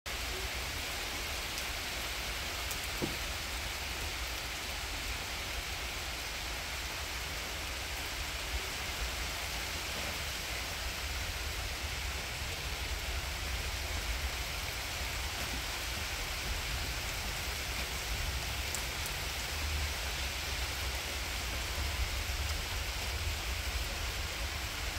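Steady rain falling in a thunderstorm, an even hiss with a low rumble underneath.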